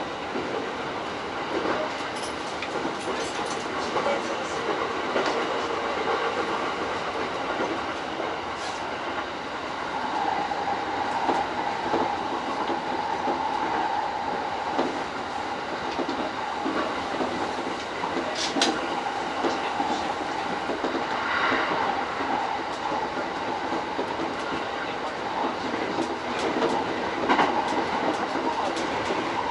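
E231-series electric commuter train running at speed, heard from inside its leading car: steady rumble with wheels clacking over rail joints and scattered sharp clicks, and a steady whining tone from about ten seconds in.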